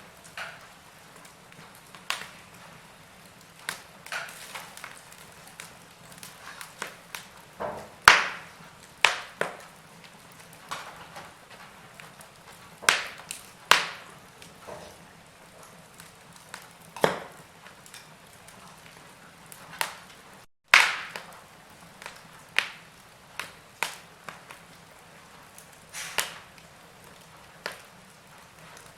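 Wood fire crackling in a fireplace: irregular sharp pops and snaps, one every second or two, over a soft steady hiss. There is a brief break in the sound about two-thirds of the way through.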